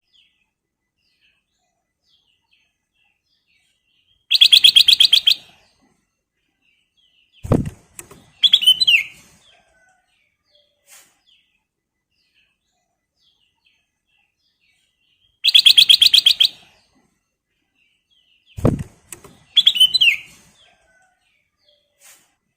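Black-crested bulbul (kutilang emas) singing: a fast trill of about a dozen high notes, then a short phrase ending in a falling whistle. The whole sequence comes twice, about eleven seconds apart, each time with a short dull thud just before the closing phrase.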